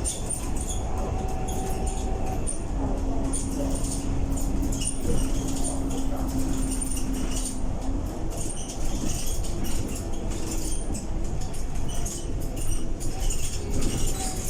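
Scania K230UB bus running with its ZF 6HP504C automatic gearbox: a low rumble with a whine. The whine holds steady for several seconds, then climbs in pitch as the bus accelerates. Light clicking and rattling runs throughout.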